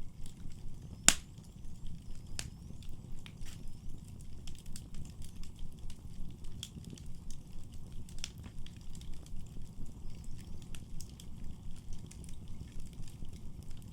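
Wood fire crackling in a fireplace: a steady low rumble of flames with scattered sharp pops and snaps, the loudest about a second in.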